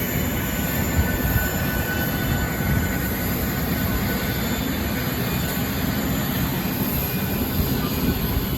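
Steady aircraft noise on an airport apron: a low rumble with a faint, even jet-type whine.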